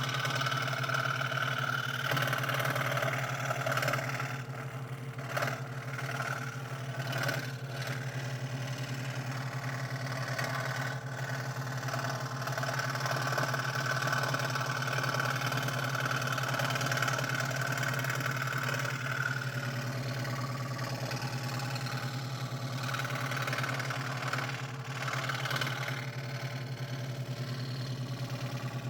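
Scroll saw running and cutting thin 3 mm craft plywood: a steady low hum of the reciprocating blade drive under a cutting hiss that rises and falls as the wood is fed, easing off briefly a few times.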